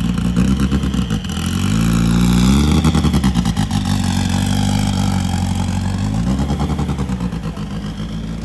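Drag race car engine revving: the pitch climbs about a second in, is held at high revs for several seconds, then drops back toward idle near the end.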